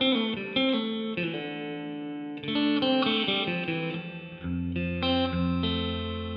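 Electric guitar played through the hall reverb of a Donner Yellow Fall II pedal with the decay at halfway. Picked notes ring with a long reverb tail, which is "pretty long", and near the end fuller, lower notes are held.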